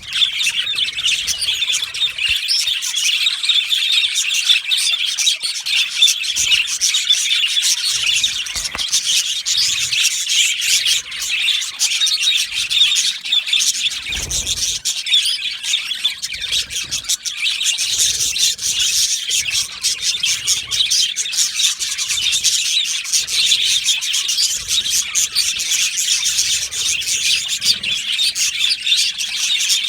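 A flock of budgerigars chattering and chirping continuously, many birds calling over one another with quick high chirps and warbles.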